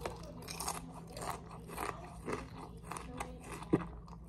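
Close-up chewing of a mouthful of Raisin Bran Crunch cereal in milk: crisp crunches about twice a second, still very crunchy with the milk. A sharper click near the end is the loudest moment.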